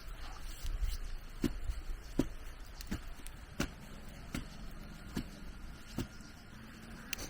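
A blade chopping, with about seven even strikes roughly three-quarters of a second apart, consistent with cutting bamboo. A low wind rumble on the microphone is heard near the start.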